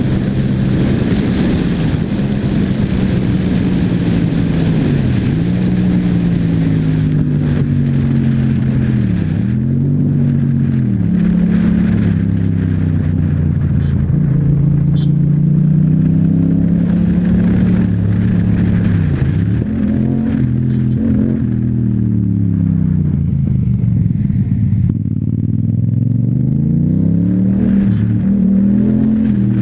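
Yamaha MT-07's parallel-twin engine through an Akrapovic exhaust, heard from the moving bike. The engine note falls and climbs back again several times as the rider accelerates, shifts and eases off. A hiss rides over it for roughly the first third.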